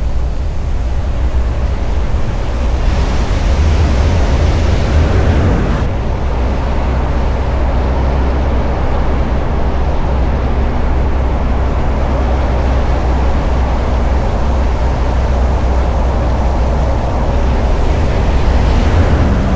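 1991 Volkswagen Vanagon Syncro driving: a steady low engine and road rumble with wind noise, swelling for a few seconds about three seconds in.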